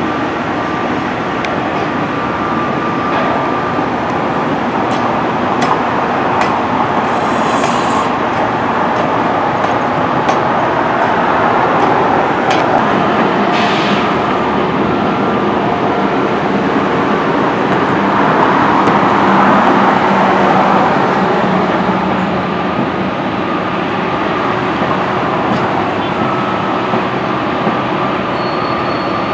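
Train running steadily along its track, a continuous noise of wheels and running gear with faint steady tones in it.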